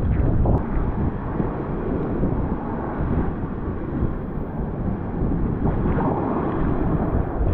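Strong gusty wind buffeting the microphone, over the rush of a rough sea surging against the shore. It is a little louder for the first half second.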